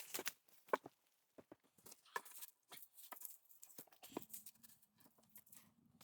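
Faint, irregular clicks, cracks and rustles of wood and twigs being handled on a forest floor, with a faint low hum setting in about four seconds in.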